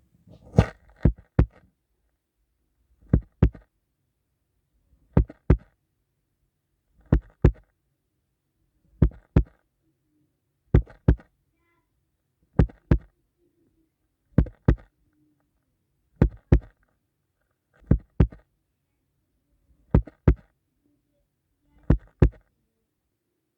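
Sharp double knocks, repeating about every two seconds in a heartbeat-like rhythm (the first group has three), presented as a heartbeat heard inside a Huggy Wuggy plush toy.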